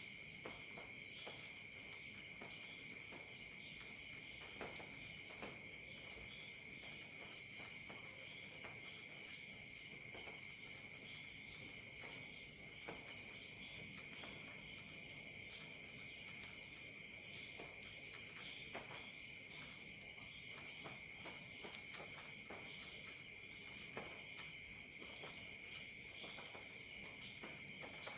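Crickets chirping without pause in several layered pitches, one high shrill pulsing trill over a lower steady one, with scattered faint pops of a crackling campfire.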